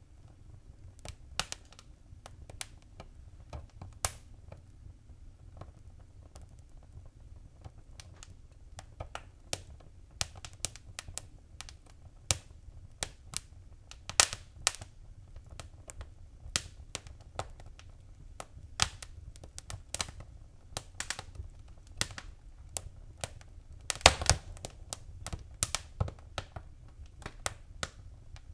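Wood fire crackling in a fireplace: irregular sharp pops and snaps over a low rumble of the flames, with a cluster of louder pops about 24 seconds in.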